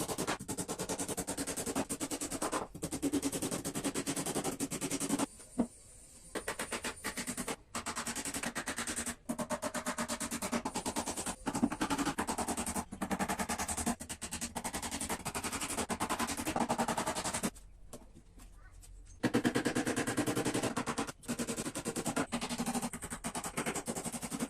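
Rapid mechanical rattling, like a power tool running, in long spells broken by two short pauses.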